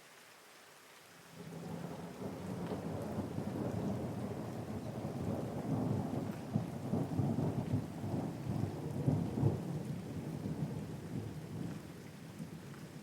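Steady rain with a long roll of thunder. The thunder comes in about a second in, rumbles loudest in the middle and slowly fades near the end.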